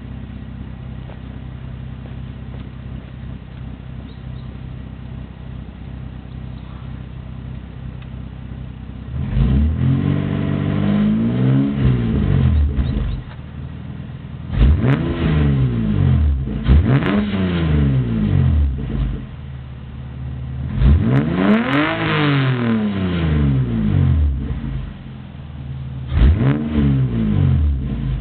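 Toyota Supra MK4's straight-six through a Motoria aftermarket exhaust, idling steadily, then revved in four bouts from about nine seconds in, each one climbing in pitch and falling back.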